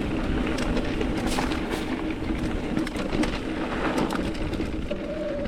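Mountain bike tyres rolling over loose rock and gravel, with a steady crunch, many quick clicks and rattles, and wind rumble on the camera microphone.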